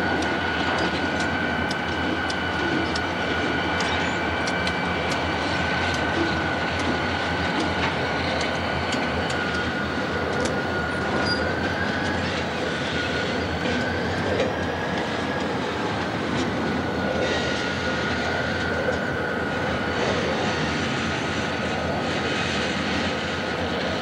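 CP Rail intermodal freight train rolling slowly past, its wheels clicking over rail joints, with a steady high squeal from the wheels throughout.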